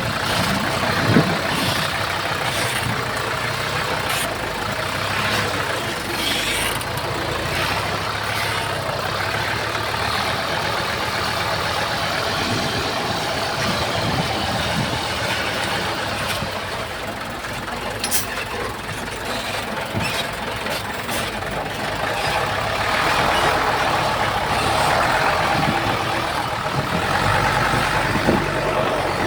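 Heavy diesel earthmoving machinery running steadily, with a few sharp knocks. The engine noise swells somewhat near the end.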